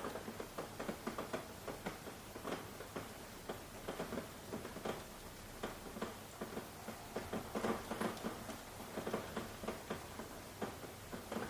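Rain pattering, with individual drops tapping irregularly several times a second over a faint hiss.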